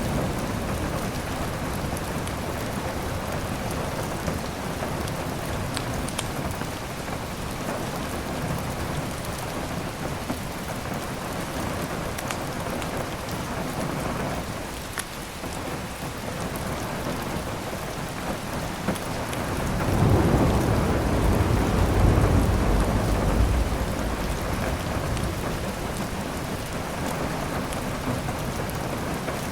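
Heavy rain falling steadily, with scattered small crackles from a wood fire. A low roll of thunder swells about two-thirds of the way through and fades after a few seconds.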